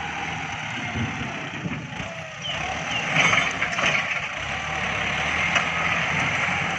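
Kubota MU5702 tractor's diesel engine running steadily, with a continuous hiss over it.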